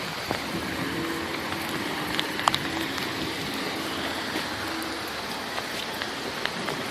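Steady patter of rain and dripping water in the wake of a hailstorm, with a few sharper drip ticks and a faint steady hum underneath.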